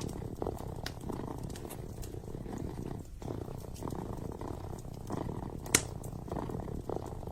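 A kitten purring close up, the purr swelling and easing with each breath. Scattered crackles from a wood fire sound over it, with one sharp pop a little after the middle.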